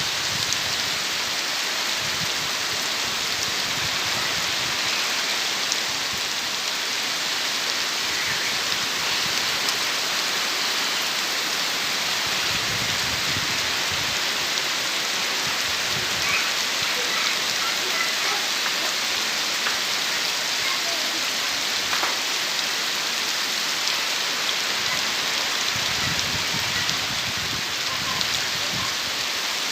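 Heavy rain falling steadily and drumming on surfaces, in a dense, even hiss with scattered drops ticking, and a few brief low gusts of wind.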